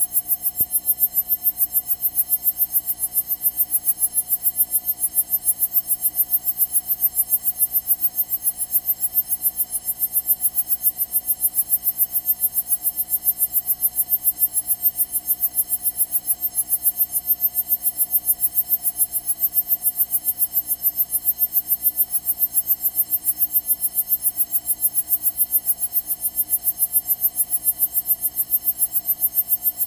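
Steady electronic buzz that pulses rapidly and evenly, with no engine or voices heard. It is electrical interference in the aircraft's intercom audio feed.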